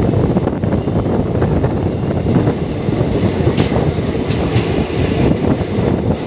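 Passenger train running along the track: a steady, loud rumble of wheels on rail, with a few sharp clicks about halfway through as the wheels pass over rail joints.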